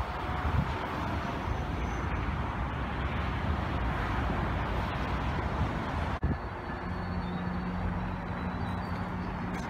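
A GO Transit commuter train rumbling past at a distance, mixed with road traffic noise. About six seconds in the sound breaks off sharply, and a steady low engine hum follows.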